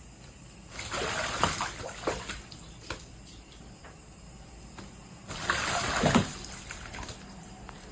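A crow bathing in water, splashing in two bursts, about a second in and again after about five seconds, with small drips and splashes between.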